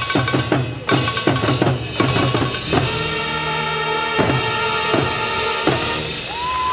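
Marching band playing: sustained brass chords over drumline hits, including bass drum and snare. Near the end a rising whistle and cheer comes up from the crowd.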